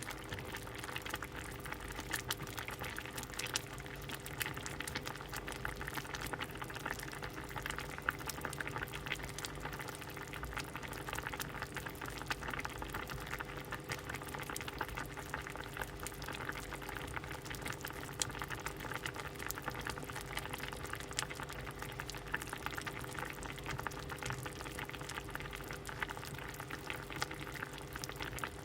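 Pot of soup boiling: a steady bubbling full of small, quick pops, over a faint steady hum.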